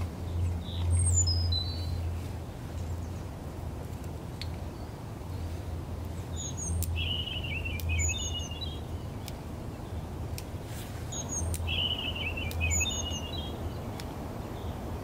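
A small songbird singing: a short falling run of high notes about a second in, then the same phrase of high notes and a trill given twice, about four and a half seconds apart. Under it, wind buffets the microphone in a low rumble that rises and falls.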